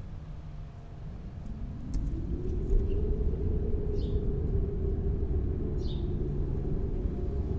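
Snowstorm wind blowing as a deep low rumble that swells up about two seconds in and holds steady. A few short, high, falling squeaks sound over it.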